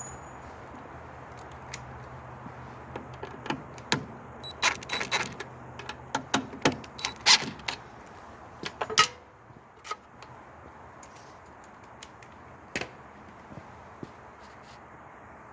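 Metal tools and small metal parts clinking and clattering: a run of sharp clicks and clanks between about three and nine seconds in, then a few scattered ticks. A low steady hum stops about six seconds in.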